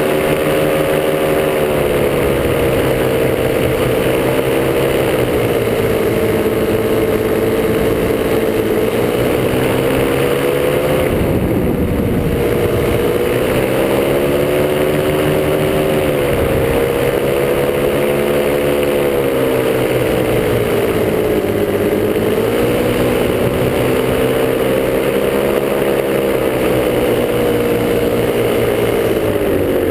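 Top 80 single-cylinder two-stroke paramotor engine running steadily, its pitch wavering up and down as the throttle is worked. About twelve seconds in it dips and rises again, and it sags near the end.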